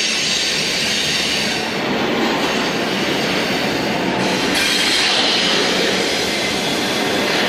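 Double-stack intermodal freight train's well cars rolling past close by: a steady, loud noise of steel wheels on rail, much of it high-pitched.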